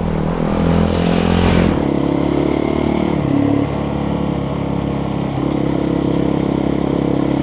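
Motorcycle engine under way, rising in pitch over the first couple of seconds as it accelerates, then running at a steady speed.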